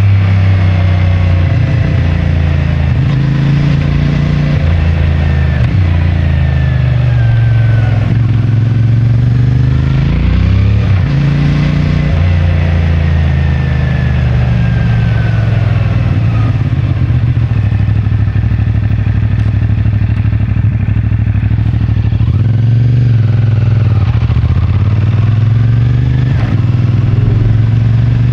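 CFMoto 450MT's 449 cc parallel-twin engine with its stock exhaust running under a rider in town traffic, pulling up through the revs and easing off several times.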